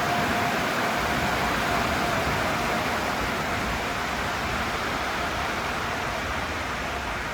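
Steady rushing noise of a Sonny's tunnel car wash in operation, with a faint steady tone in the first couple of seconds.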